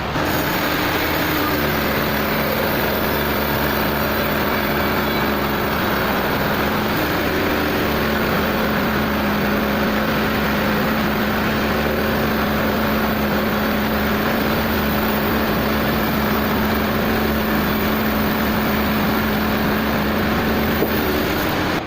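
Sawmill machinery running steadily, with a constant engine or motor hum under a broad mechanical noise.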